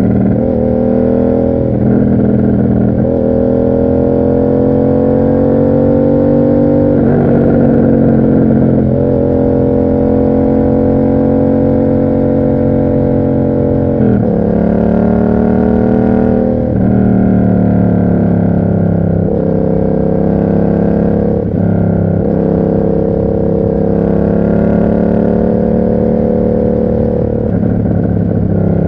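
Yamaha MT-07's parallel-twin engine running through an aftermarket SC Project exhaust while riding. The note climbs gradually under throttle, with several breaks in pitch from gear changes or throttle changes every few seconds.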